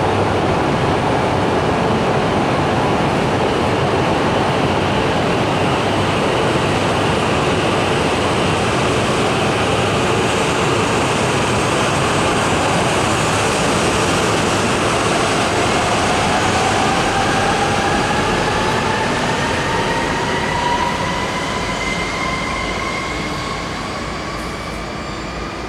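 E5 series Shinkansen train pulling out and accelerating, a steady rolling rumble throughout. From about ten seconds in, the traction motors add a whine that climbs steadily in pitch. The sound fades over the last few seconds as the train draws away.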